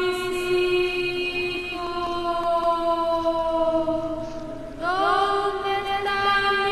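Slow background music of sustained choir-like chanting voices. Long held notes sink slowly in pitch, and a new note swells in a little before the end.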